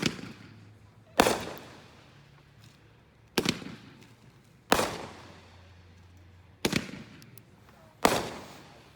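Consumer fireworks going off: six loud bangs at uneven gaps of a second or two, each trailing off over about a second.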